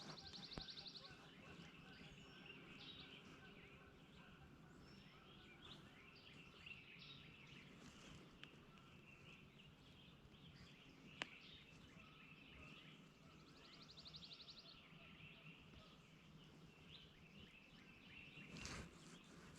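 Faint woodland ambience with songbirds calling: scattered high chirps and two short, high buzzy trills about thirteen seconds apart. A single sharp click about eleven seconds in.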